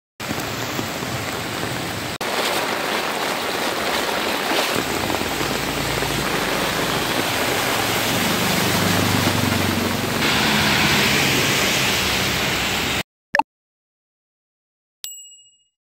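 Heavy rain and rushing floodwater, with a three-wheeler auto-rickshaw's engine and the splash of its wheels through the flooded road around the middle. The water noise cuts off suddenly about 13 seconds in, followed by a short click and a ringing ding chime.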